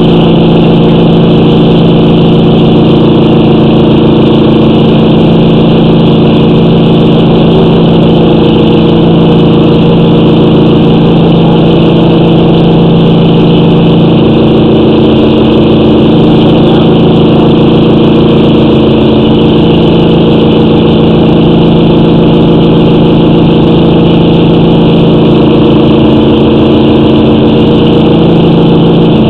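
An engine running at a steady speed, loud and unchanging throughout.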